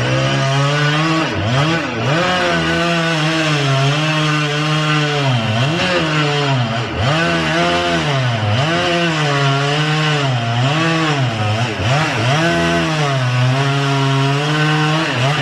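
Two-stroke chainsaw cutting into a tree at high revs, its pitch dropping sharply and recovering again and again as the chain bogs in the wood and the throttle is worked.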